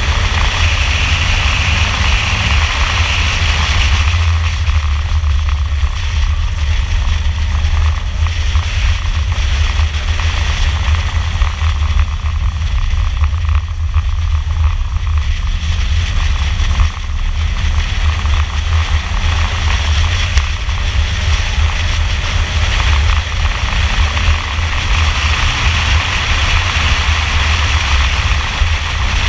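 2002 Camaro Z28's LS1 V8 under track driving, heard from inside the car with a heavy low drone. It revs high at first, drops to lower revs through a slow corner around the middle, then climbs again near the end.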